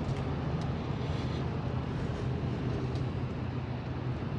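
Ford F-250 pickup on the move, heard from inside the cab: a steady low engine drone with an even wash of road and tyre noise.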